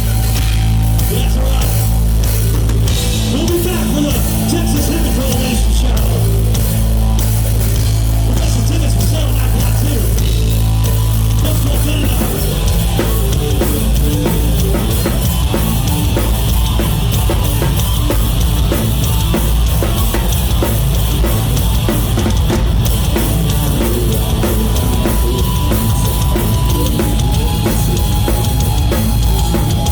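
Live rock band playing, heard from the drum kit: steady kick and snare strokes over distorted guitars and bass, with the bass line changing about twelve seconds in.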